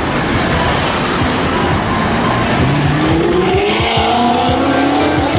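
A car engine accelerating hard over a steady rush of noise, its pitch climbing from about three seconds in.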